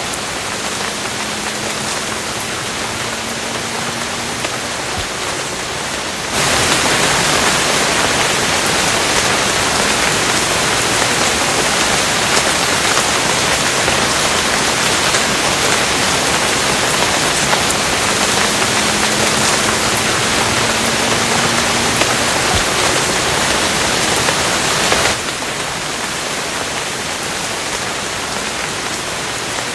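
Steady rain falling, an even hiss. About six seconds in it abruptly becomes louder and fuller, as if the downpour thickens, and near the end it drops back just as suddenly to the lighter level.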